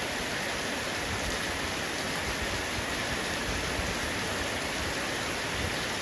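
Heavy rain falling steadily on a roof, an even hiss of drops.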